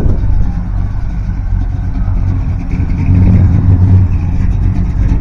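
Car engine running with a low, steady rumble as a car drives slowly past, growing louder about three seconds in.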